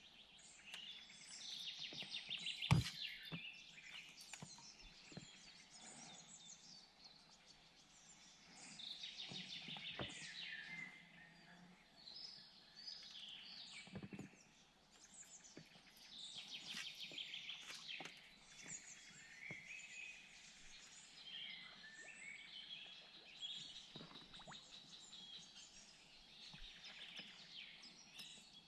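Songbirds singing, with a trilled song that comes back every six or seven seconds among other chirps. A sharp knock about three seconds in, and a few fainter clicks.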